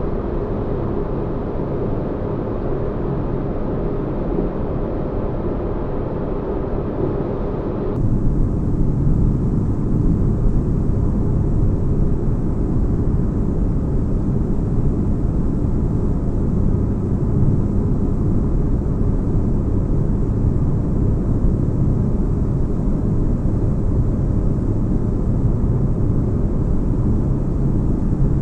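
Sci-fi spaceship ambience: a steady, deep rumbling noise bed like a starship's engine hum, heavy in the bass. About eight seconds in it switches abruptly to a slightly louder, deeper rumble.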